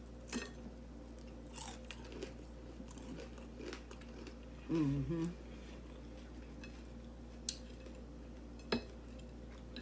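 Extra-crispy oven-cooked bacon being bitten and chewed close to the microphone: scattered soft crunches, with two sharp clicks near the end.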